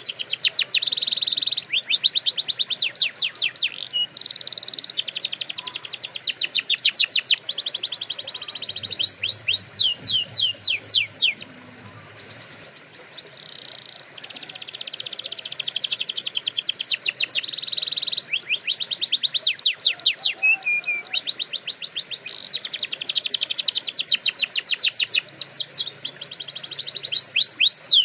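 Domestic canary singing long rolling trills of rapid repeated high notes, in phrases of several seconds. There is a quieter pause of a couple of seconds about halfway through.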